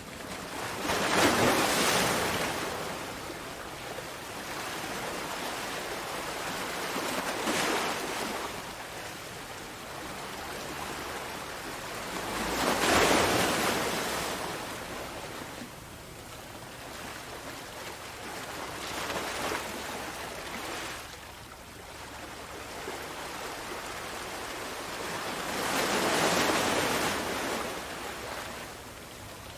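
Sea waves breaking on a shore, a steady wash of surf that swells with a louder break every six seconds or so, the biggest about a second in, near the middle and near the end.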